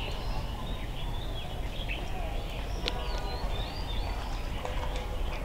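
Small birds chirping over a steady low background noise, many short calls and small rising and falling chirps scattered through.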